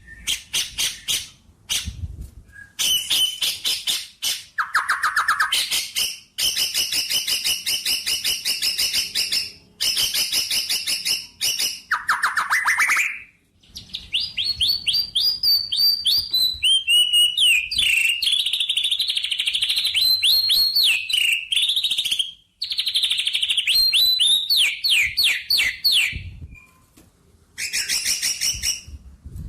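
Small birds chirping and trilling: long runs of fast, repeated high chirps broken by short pauses, turning to quick warbled phrases that rise and fall through the middle.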